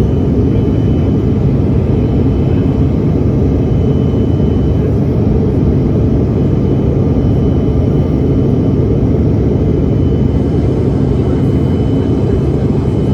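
Steady drone of an American Eagle regional airliner's engines and airflow heard inside the passenger cabin, with a faint steady high whine above it and no change in level.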